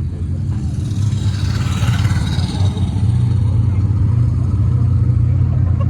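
Mini stock race car engine running at a steady idle with a deep, even rumble. A rushing sound swells and fades over the top about one to three seconds in.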